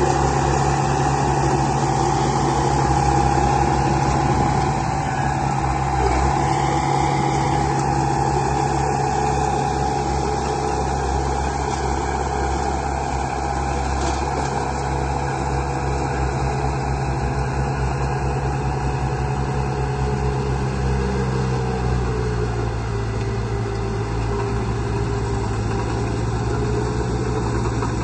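Radio-controlled model construction vehicle running steadily, a continuous motor hum with a steady whine; the pitch drops slightly about 21 seconds in.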